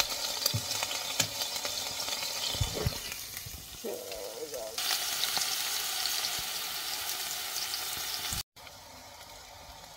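Crushed garlic and ginger sizzling and crackling in hot oil in a stainless steel pan, with a few knocks in the first three seconds. The sizzle cuts off suddenly just after eight seconds, and a fainter hiss follows.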